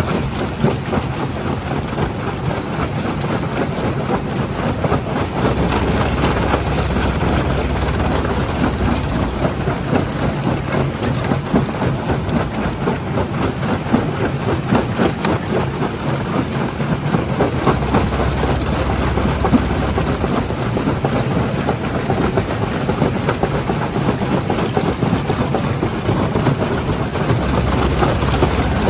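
Jaw crusher running, with rock continuously crushing and clattering inside it over the steady drone of heavy machinery.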